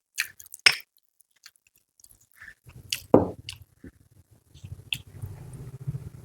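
Close-miked eating: biting and chewing, with a few sharp crisp snaps, the loudest just under a second in and another about three seconds in. A low steady hum comes in just before the middle.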